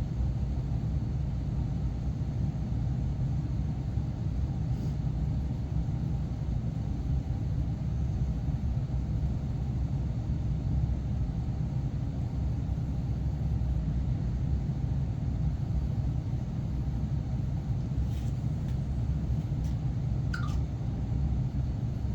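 Steady low rumble of running machinery in a boiler room, constant in level. Near the end come a few faint clicks and a short rising chirp.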